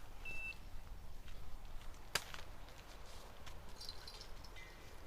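Quiet outdoor ambience with a low rumble of wind on the microphone, a short high-pitched beep right at the start and a single sharp click about two seconds in.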